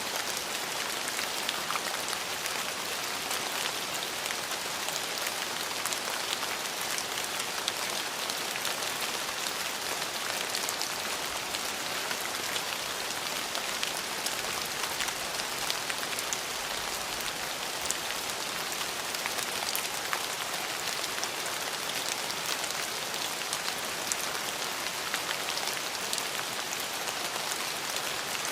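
Steady rainfall, a dense even hiss of drops with fine individual drop patter throughout.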